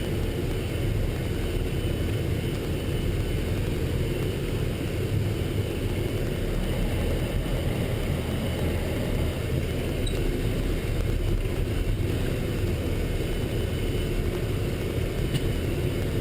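Military truck driving, with a steady low engine and road rumble.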